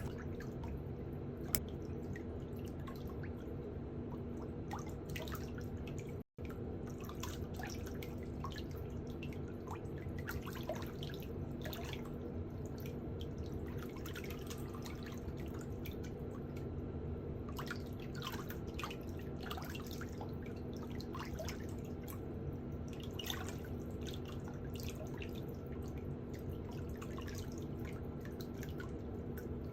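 Water dripping and lightly splashing in small, irregular drops, over a steady low electrical hum.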